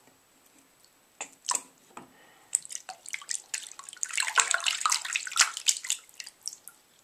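Water dripping and splashing as a plush toy is washed in a tub of water: a few scattered drips, then a busier stretch of sloshing and splashing from about two and a half seconds in.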